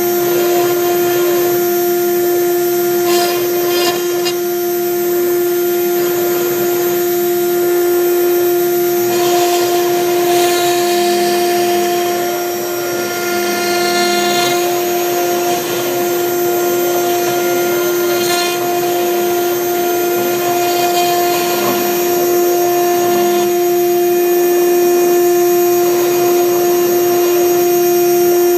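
CNC router spindle running with a steady high whine as a V-bit engraves MDF, with a softer wavering tone beneath that keeps rising and falling as the machine moves.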